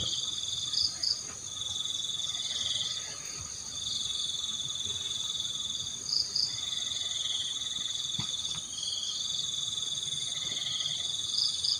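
Night chorus of crickets and other insects, a steady shrill trilling. A short, loud double chirp comes three times, about every five seconds.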